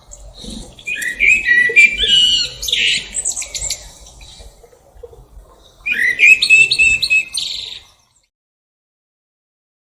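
Sabiá-preta, a Brazilian thrush, singing in two loud bursts of quick, varied, gliding whistled notes, with fainter calls between. The sound cuts out abruptly about eight seconds in.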